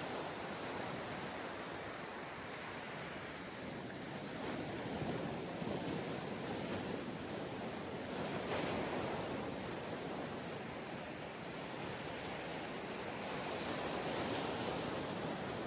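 Ocean waves washing onto a sandy beach, a continuous surf hiss that swells and eases every few seconds, with some wind on the microphone.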